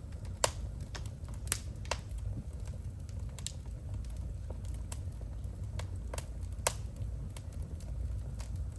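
Wood fire burning in a home fireplace: irregular sharp crackles and pops, a few loud ones standing out, over a low steady rumble of the flames.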